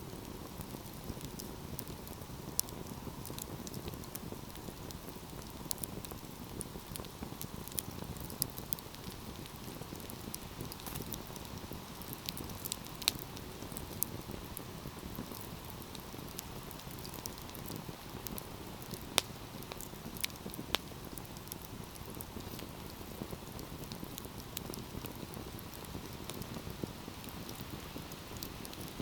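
Fire burning in a fireplace: a steady low rush of flames with scattered sharp crackles and pops, a few of them louder.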